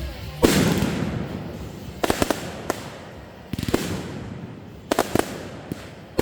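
Fireworks going off: a loud boom about half a second in with a long fading crackle after it, then clusters of sharp pops and bangs, including a quick crackling string near the middle.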